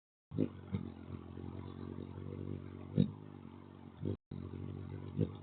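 A motor engine running steadily, with a few short knocks over it and a brief dropout to silence about four seconds in.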